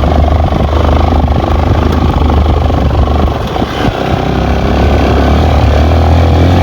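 Yamaha FZS V2 motorcycle's single-cylinder engine running under way, with a steady low engine note. A little past halfway the engine eases off briefly, then picks up again.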